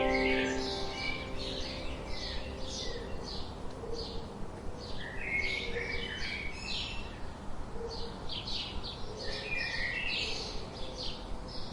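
Songbirds chirping: many short, high chirps repeating throughout, over a soft steady wind. The tail of fading music notes dies away in the first second.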